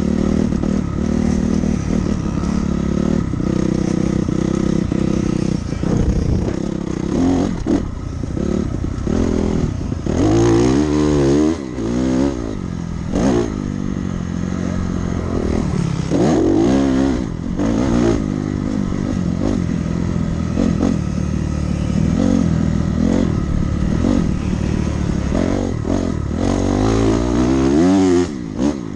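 Dirt bike engine revving up and down over and over as it is ridden, the pitch climbing and dropping with the throttle and gear changes.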